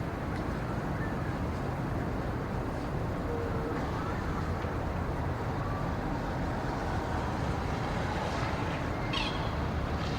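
Steady wind ambience in a winter pine forest, mostly a low even rush, with a few faint short bird calls scattered through it.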